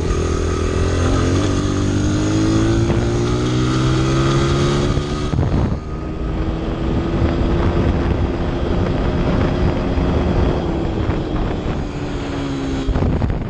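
Honda CRF100 dirt bike's single-cylinder four-stroke engine running under way, its pitch rising over the first few seconds. It drops briefly about five and a half seconds in, then holds steady and eases off near the end.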